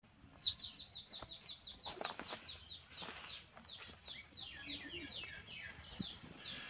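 A bird calling: a rapid run of short, high, downward-sliding chirps, about seven a second at first, slowing and growing fainter toward the end.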